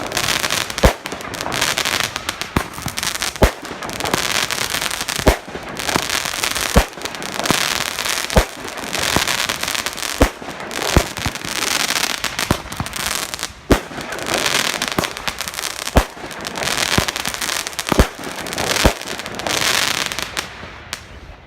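Fireworks going off in a steady string: a sharp bang every second or two, with dense crackling and fizzing in between, stopping just before the end.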